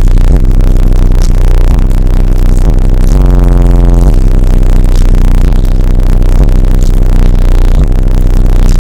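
Bass-heavy music played very loud through Sundown E12 12-inch subwoofers wired to 1 ohm, heard inside the car cabin. The deep bass notes overload the recording into a distorted, clipped wash.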